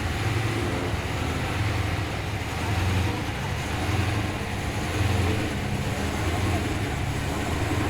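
Car engine running at low speed as a car drives slowly out of a car park: a steady low rumble that swells slightly a few times.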